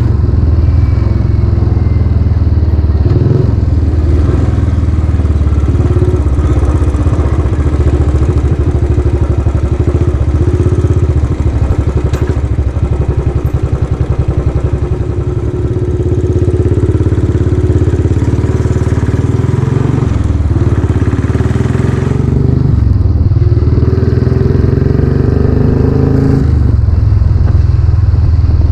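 Royal Enfield Classic 500 single-cylinder engine running on the move through its newly fitted aftermarket exhaust silencer, a deep steady thump. The revs ease off briefly about halfway and shift several times near the end.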